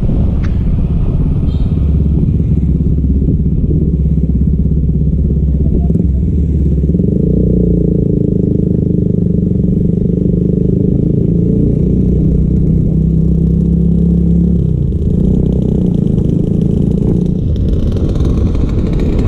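Custom chopper motorcycle engine running loud and steady with a deep low note. About seven seconds in the note rises to a higher pitch, then it drops back around fifteen seconds in.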